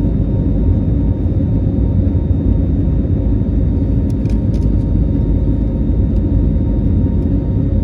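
Airliner in flight heard from inside the cabin: a steady, even rumble of engines and airflow, strongest in the low end, with a faint steady hum over it.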